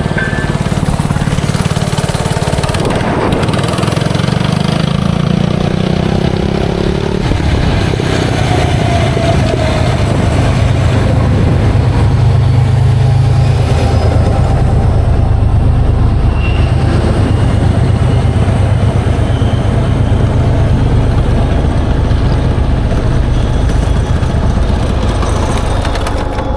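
FRP GMB100 minibike's single-cylinder engine running on a ride through an aftermarket header pipe and dirt-bike slip-on muffler, its note holding fairly steady with a rise in revs about five to seven seconds in.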